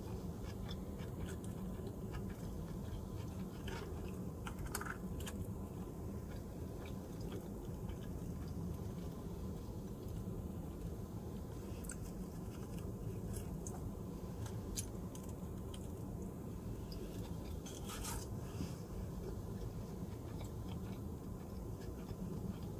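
A person chewing a mouthful of sushi burrito, with scattered short sharp crackles, the loudest about five seconds in and again near eighteen seconds, over a steady low hum.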